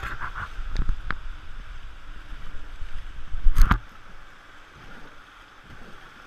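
Rushing whitewater of a river around a raft, with low buffeting on the microphone and one loud bump about three and a half seconds in.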